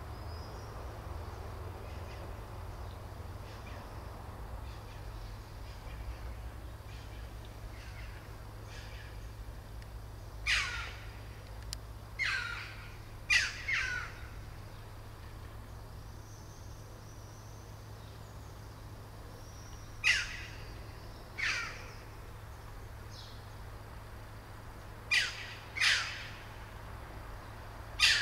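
Short, sharply falling bird calls, mostly in close pairs, repeated several times from about a third of the way in, over a steady low rumble.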